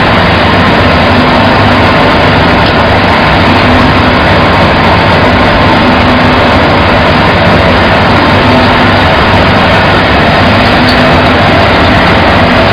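Rice husk carbonization machine running: a loud, steady machinery hum with a constant drone that does not change.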